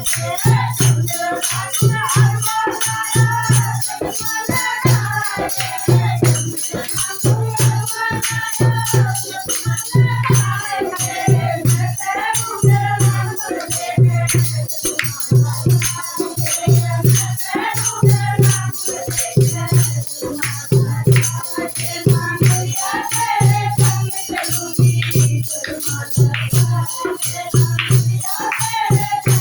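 Devotional folk bhajan: voices singing a melody over a steady drum beat and rattling, jingling hand percussion.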